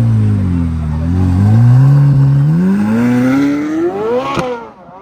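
A car engine revving hard as the car accelerates away. The pitch dips about a second in, then climbs steadily before dropping off sharply near the end.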